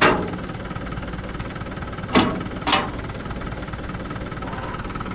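Diesel engine running steadily, broken by three loud knocks: one at the start, then two about half a second apart a little past two seconds in.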